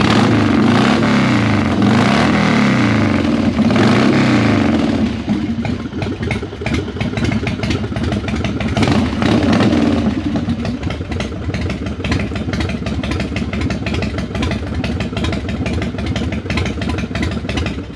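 Harley-Davidson Road King's V-twin engine running loud, revved up and down several times in the first few seconds and again about halfway, settling to a fast, lumpy idle between, then cut off at the very end.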